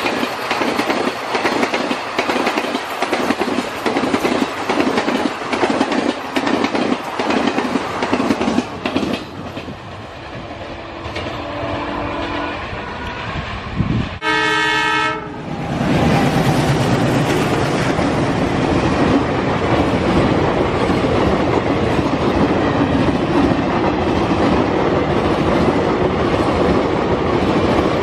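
Train running on rails: rhythmic clickety-clack of wheels over rail joints, which fades out about nine seconds in. About halfway through, a train horn sounds once for about a second and a half, then the train's running noise turns loud and steady.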